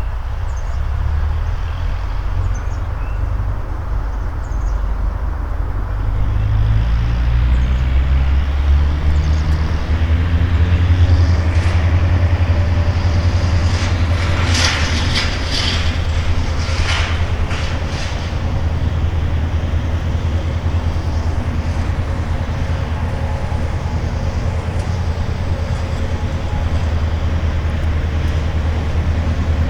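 Low, steady rumble of a large vehicle's engine, its pitch rising about six to ten seconds in, with a stretch of rattling and clanking around the middle.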